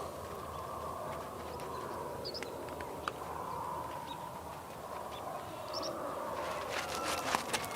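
Sheep flock ambience: a steady, wavering background with a few short bird chirps over it, then a quick clatter of hooves starting near the end.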